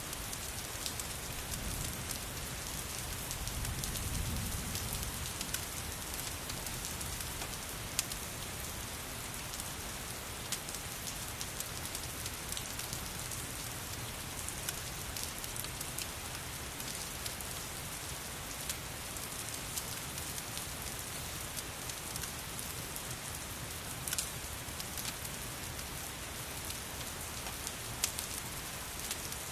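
Steady rain hiss mixed with a fireplace crackling in scattered sharp pops. A low rumble swells briefly about four seconds in.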